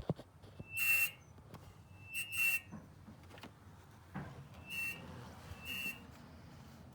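Short whistling hisses from under the hood of a switched-off 2019 Hyundai Sonata, just after a drive. There are four in all, each under half a second and irregularly spaced, with a faint knock or two between them.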